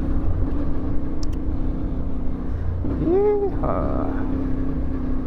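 CFMoto 450MT parallel-twin engine running steadily at road speed, with low wind rumble. About three seconds in comes a brief voice sound whose pitch rises and falls.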